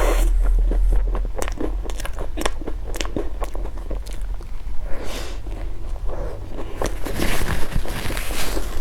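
Close-miked eating: a person biting and chewing food in a run of sharp crunchy clicks, with longer crackly crunching about five seconds in and again near the end. A steady low hum runs underneath.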